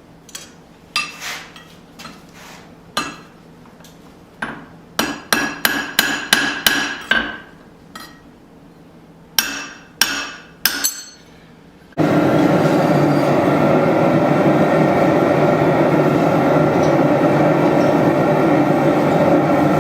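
Hand hammer striking a small forged hatchet head on the anvil in irregular blows, each with a metallic ring, with a quick flurry of a dozen or so blows in the middle. About twelve seconds in, a loud steady noise cuts in abruptly and runs on.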